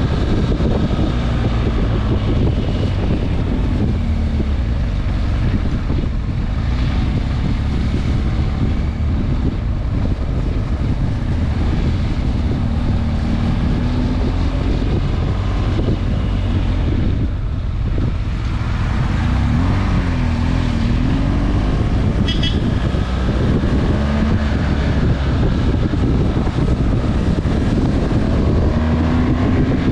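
Motorcycle engine running under way, its note rising and falling as the rider speeds up and eases off, with heavy wind rumble on the microphone.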